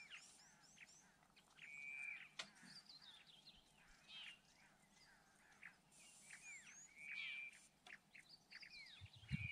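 Faint birdsong: several birds give quick chirps that rise and fall in pitch, with a few short held whistles.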